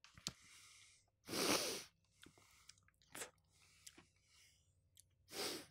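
Close-miked chewing of Popeyes fried chicken, with small wet mouth clicks and louder noisy bursts about a second in, around three seconds in and near the end.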